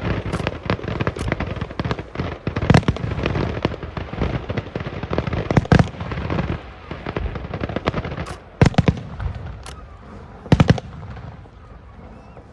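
Aerial fireworks bursting: a dense run of cracks and booms for about seven seconds, then a few separate loud bangs, the last and loudest about ten seconds in, dying away near the end.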